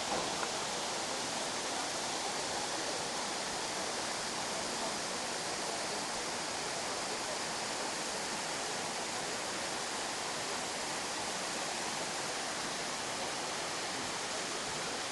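Steady rushing of a mountain waterfall, an even hiss that does not change.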